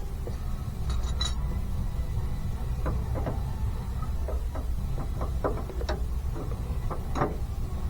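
Scattered light metallic clicks and clinks of wrenches being handled and tried on bolts, over a steady low hum.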